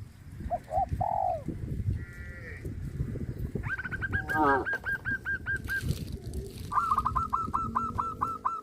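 Birds calling: a couple of short arched calls, then fast runs of repeated chirps, about five or six a second, with a brief falling call in the middle. A low, uneven rumbling noise runs underneath.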